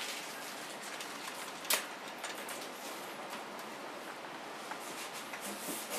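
Quiet steady hiss with one sharp click a little under two seconds in and a few faint ticks after it; no motor or rotor sound.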